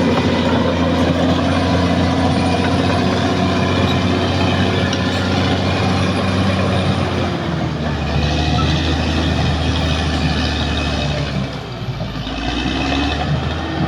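Caterpillar D6R XL bulldozer's diesel engine running steadily under work. Near the end its note dips and then climbs back up.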